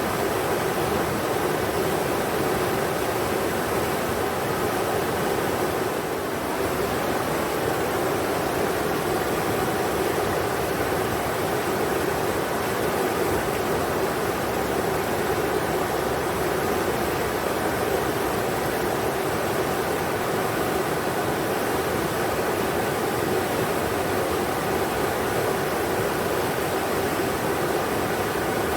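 Englishman River rushing: a steady, even roar of flowing water with no breaks.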